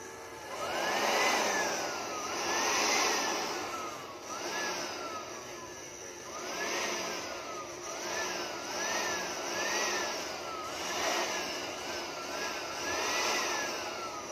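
Makita 12V cordless blower motor spinning up and down as its trigger is squeezed and released, about ten times, each time a rising whine with a rush of air, then a slower falling whine as it coasts down.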